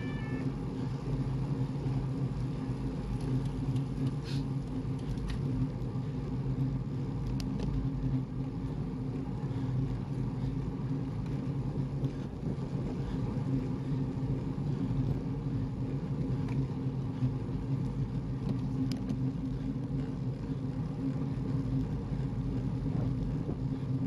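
Steady drone of a car engine with road noise, running at a constant even speed.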